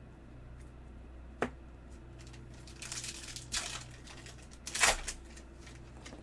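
Crinkling and rustling of trading-card packaging and plastic being handled: a sharp click about a second and a half in, a stretch of rustling around three seconds, and a louder crinkle just before five seconds.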